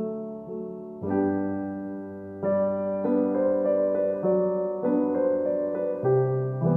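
Soft, slow solo piano music, notes and chords struck one after another and left to ring.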